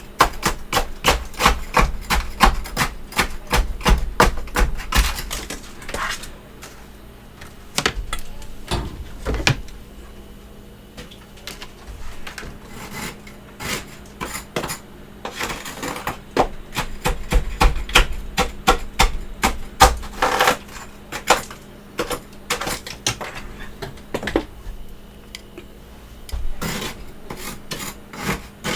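Close-miked chewing of freezer frost, a rapid series of sharp crunches a few a second, broken by short pauses. A faint steady hum lies under it.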